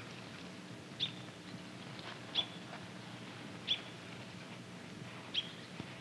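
A bird chirping: four short, sharp, high single chirps spaced evenly about a second and a half apart, over a faint steady low hum.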